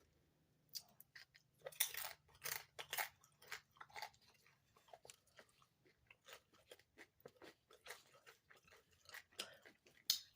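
A person chewing and crunching food close to the microphone, in irregular wet clicks and crunches, louder in the first few seconds and softer after.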